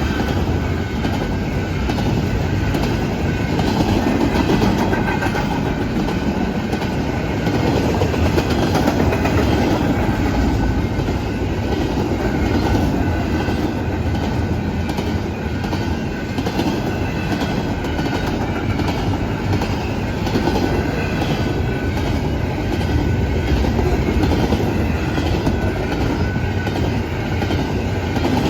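Norfolk Southern intermodal freight train rolling past, a steady loud rumble of steel wheels on rail with evenly repeating clicks as the cars cross the rail joints.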